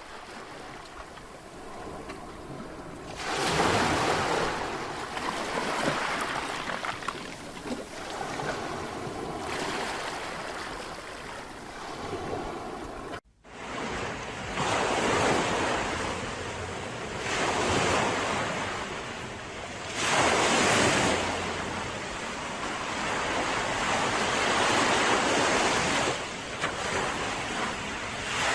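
Sea waves breaking and washing up on a Mediterranean beach, the surf swelling and falling back every few seconds. The sound breaks off abruptly once, about halfway through, and resumes.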